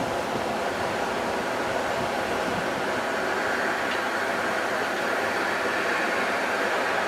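Steady rumble of a train on an elevated line, swelling slightly about halfway through.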